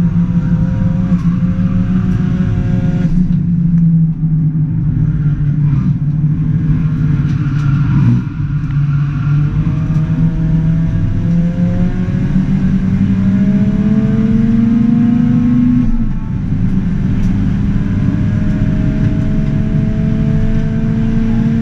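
Ford Fiesta ST180's turbocharged 1.6 EcoBoost four-cylinder engine under hard acceleration, heard from inside the cabin. The revs climb in long pulls, broken by a gear change about 16 seconds in where the pitch drops and then rises again.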